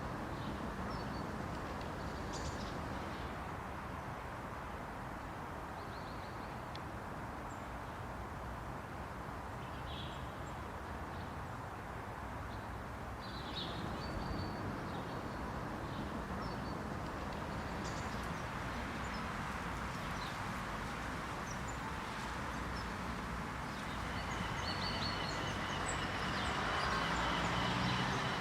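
Street ambience in a residential district: a steady hum of distant city traffic with scattered short bird chirps. Near the end the sound grows louder and a steady high-pitched tone comes in.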